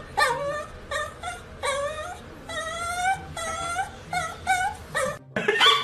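A puppy whining over and over in short, high-pitched whimpers, a dozen or so calls with some drawn out longer. Near the end the whining breaks off and a brief, louder noise follows.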